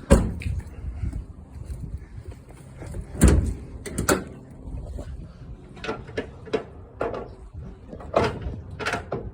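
A series of sharp knocks and clunks as a car's hood is released and raised: latch, hood and prop rod being handled, with the loudest knocks near the start and about three seconds in.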